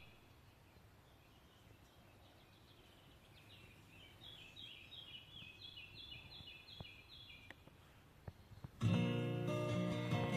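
A songbird singing a run of quick, repeated, falling chirps, faint; about nine seconds in, an acoustic guitar starts strumming, much louder.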